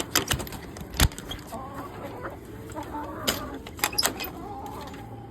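Chickens clucking, with several sharp clicks and knocks among them, the loudest about a second in.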